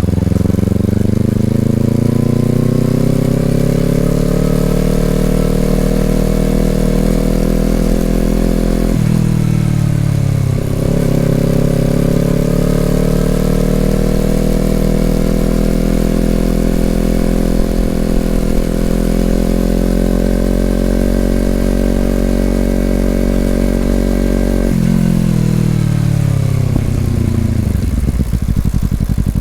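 Honda CBR250RR parallel-twin through an Over Racing aftermarket exhaust, the bike accelerating: the revs climb, drop sharply at an upshift about nine seconds in, then climb again and hold. Near the end the revs fall away as the throttle is closed.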